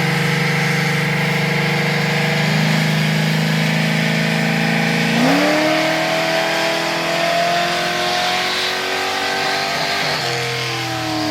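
Cammed Chevrolet Suburban V8 running steadily, then revving up quickly about five seconds in and holding higher revs, with the revs dropping back near the end.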